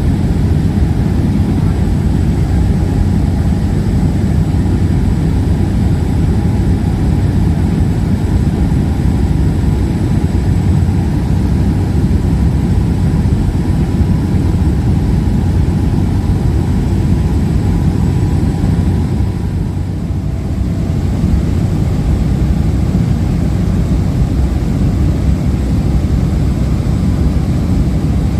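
Aircraft cabin noise in flight: the steady, loud rumble of engines and rushing air, heaviest in the low end, with a faint thin whine above it. It eases briefly about two-thirds of the way through.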